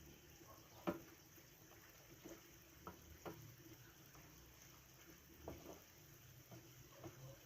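Near silence with a few faint, scattered clicks and small knocks, the loudest about a second in.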